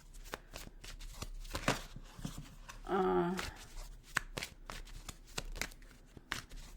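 A deck of tarot cards being shuffled and handled by hand, a run of quick card clicks and snaps. A short bit of voice comes about three seconds in.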